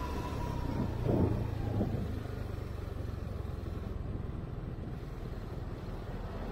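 Steady low rumble of a vehicle, with a brief swell about a second in.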